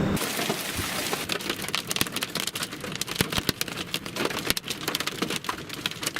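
Hailstones pelting down, a dense, irregular patter of sharp impacts.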